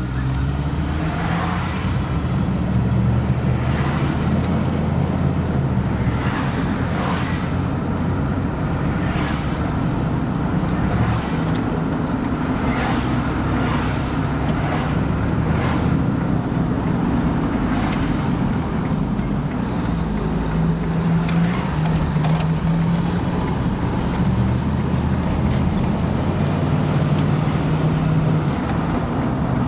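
Vehicle engine running steadily with road noise while driving, its pitch shifting a little with speed, and short sharp ticks every couple of seconds.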